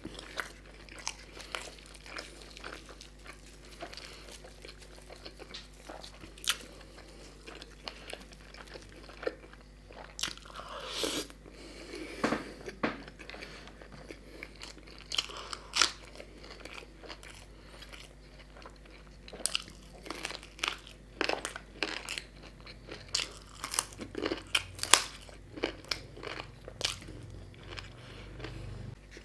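Close-up eating sounds: a man chewing and biting into puri and chicken curry, with irregular sharp crunching clicks and wet mouth sounds, a few louder bites near the middle and toward the end.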